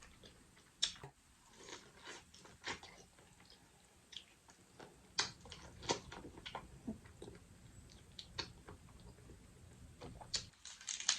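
Close-miked eating sounds: scattered wet clicks and smacks of a person chewing seafood boil food with her mouth close to the microphone.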